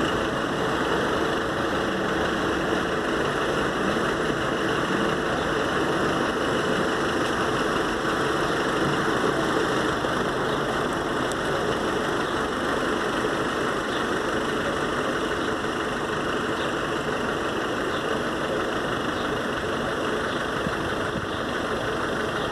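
Steady noise of vehicle engines idling, with a few faint ticks partway through.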